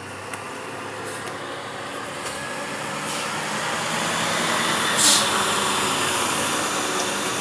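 Loaded Scania truck's diesel engine running and growing steadily louder, with a brief sharp hiss about five seconds in.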